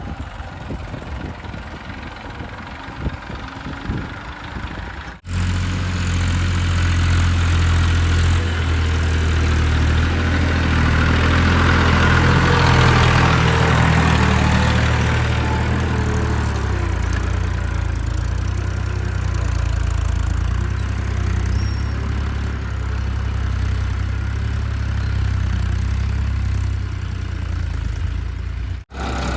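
Heavy diesel engine of an earth-moving or farm machine running, broken by a couple of abrupt cuts. About five seconds in it turns into a loud, steady low hum, with a swell of higher-pitched mechanical noise in the middle as the machine works harder.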